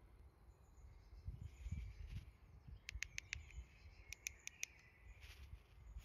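Quiet outdoor ambience with a low rumble, and a small bird chirping in two quick runs of about four short, high chirps around three and four seconds in.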